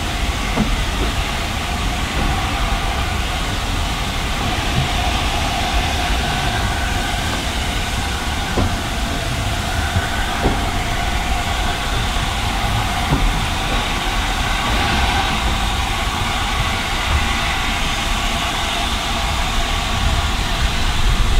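Coaches of a steam-hauled train rolling slowly through a station, heard from an open carriage window. A steady rumble with an occasional click of the wheels over rail joints.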